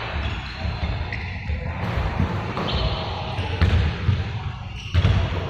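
Irregular dull thumps over a busy background, with a few sharp clicks near the end.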